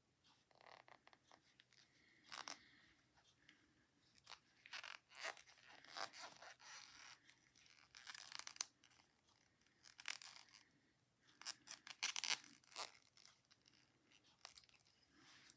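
Double-pointed knitting needles clicking and scraping against each other, with yarn rustling, as stitches are knit two together in a tight decrease round. The sound is faint, with irregular short strokes.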